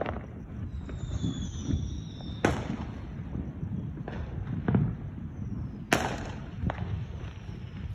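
Fireworks going off: a whistle falling in pitch ends in a sharp bang about two and a half seconds in, and another sharp bang follows about six seconds in. Lighter pops and a low boom come between the bangs, over a steady low rumble.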